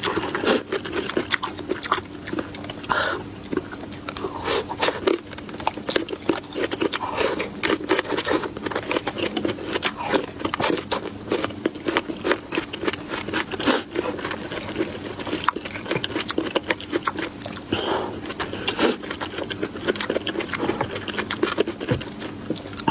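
Close-miked chewing and crunching: a dense, irregular run of quick crunches and mouth clicks, over a faint steady hum.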